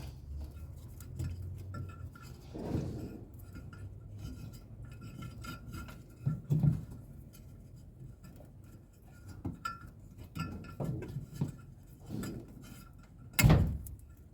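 Scattered clinks and knocks of metal tools and parts being handled while working on a washing machine's motor wiring. The loudest knock comes near the end.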